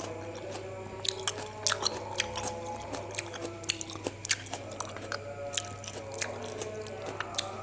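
Close-up chewing of black grapes, with many short sharp clicks and crunches from the mouth, over soft background music.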